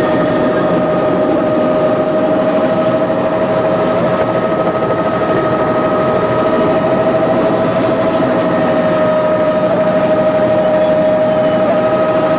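Helicopter in flight: a steady, loud whine over dense rotor and engine noise, holding constant throughout.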